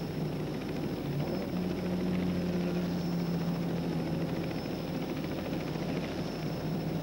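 Ford Escort RS1600 Mk1 rally car's engine running at steady revs, its pitch stepping up slightly about a second in and easing back around the middle.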